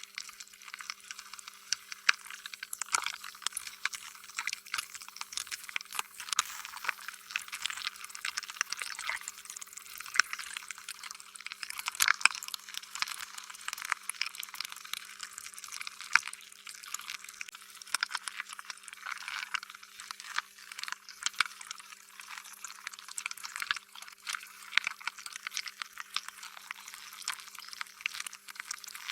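Sticky, wet slime being squished and worked: a continuous, irregular stream of small wet clicks and pops.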